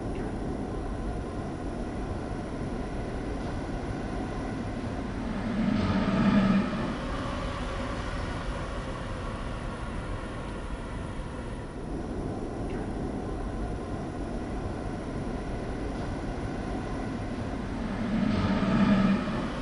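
Miniature ride-on electric train running steadily, with a motor hum that swells louder for about a second twice, some twelve seconds apart, as it passes close.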